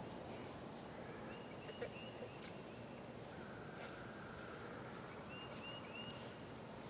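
Faint open-air ambience with a steady hiss and distant bird calls: short high whistled notes that come several times, in small groups.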